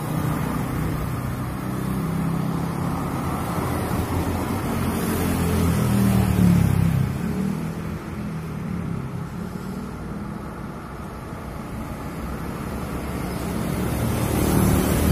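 Truck engine running, growing louder and revving up about five seconds in, easing off, then building again near the end.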